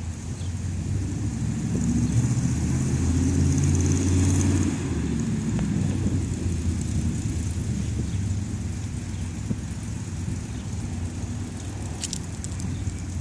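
Engine of a 1946 Dodge hot rod truck running, getting louder about two seconds in and dropping back to a steady run about five seconds in.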